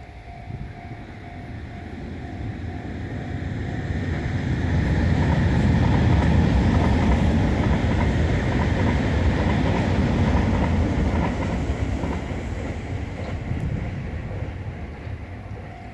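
A train passing a railway level crossing. Its noise builds to a peak about five seconds in, holds, then fades away. The crossing's warning alarm is heard faintly as a steady tone at the start, then is drowned out by the train.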